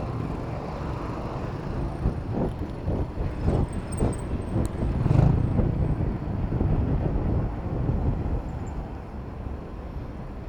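Road traffic heard from a bicycle riding through city traffic: a steady low rumble of vehicles, with a run of irregular low thumps in the middle that is loudest about five seconds in.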